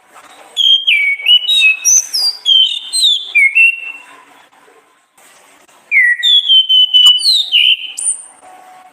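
Orange-headed thrush (anis kembang) singing: two phrases of quick, varied whistled notes gliding up and down, with a short pause of about a second and a half between them.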